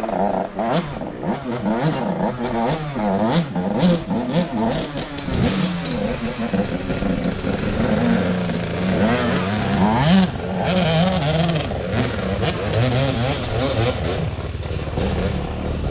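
Dirt bike engines revving, their pitch climbing and dropping again and again, with clattering.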